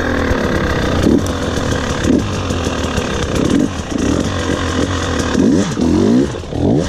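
KTM 300 XC-W two-stroke dirt bike engine on the trail, the throttle blipped over and over so the revs keep rising and falling, with a sharp rev climb near the end.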